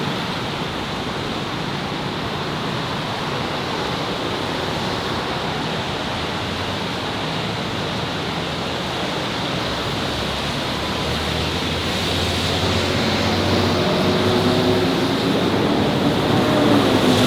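Steady city street traffic noise, a dense road rumble and hiss. In the last few seconds it grows louder as a motor vehicle's engine draws near.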